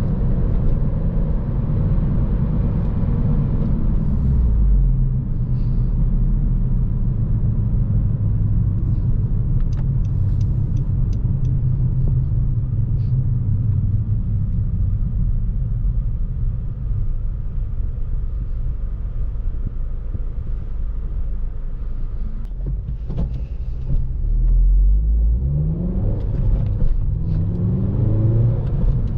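2014 Honda Civic Si's 2.4-litre four-cylinder engine and road noise, heard as a steady low rumble from inside the cabin while driving. Near the end the engine pitch rises twice in quick succession, as the car accelerates through the gears.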